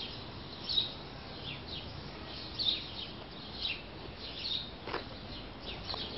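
Small birds chirping: short, high, falling chirps repeated every half second or so, with a single faint click about five seconds in.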